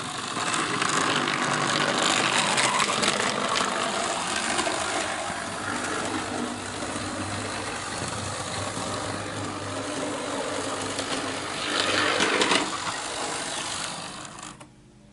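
Tri-ang OO gauge model of a Class 31 diesel locomotive running along the track, with the steady hum of its electric motor and the rumble of its wheels on the rails. It is loudest about twelve seconds in, then drops away near the end.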